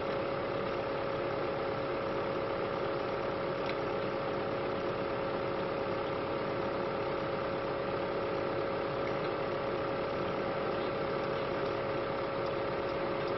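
Heavy-duty firewood processor running steadily, a constant engine hum with a steady mid-pitched tone over it.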